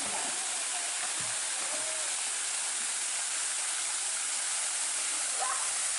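Waterfall rushing steadily: an even, unbroken roar of falling water with a bright hiss.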